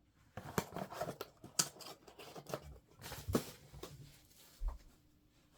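Irregular handling sounds: plastic packaging rustling, with a string of sharp clicks and taps, the loudest about one and a half and three and a half seconds in.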